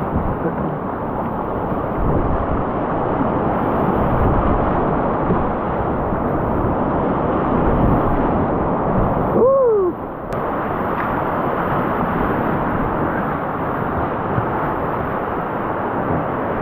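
Steady rush of creek water around a whitewater kayak, mixed with wind noise on the microphone. About halfway through comes a short tone that rises and then falls.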